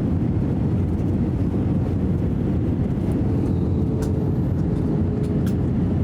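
Airliner cabin noise during the landing descent: a steady low rumble of engines and rushing air, with a faint steady hum joining about halfway through.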